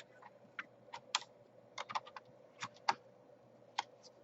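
About a dozen light, sharp clicks and taps at irregular spacing, with the rhythm of keys being typed or small parts being handled.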